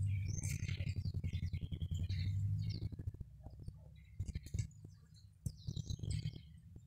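Small songbirds chirping and twittering in quick repeated notes, over a low rumble on the microphone that is strong for the first three seconds and then fades.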